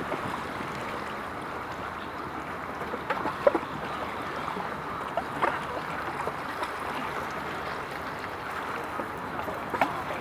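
Steady wash of water sloshing and lapping, with a few brief splashes about three, five and ten seconds in.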